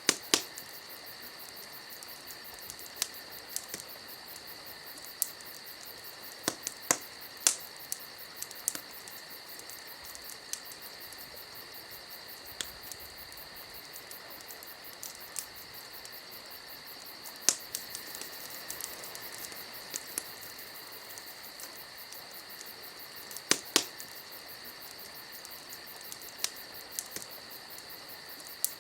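Campfire crackling, with irregular sharp pops and snaps of burning wood over a steady high-pitched hiss.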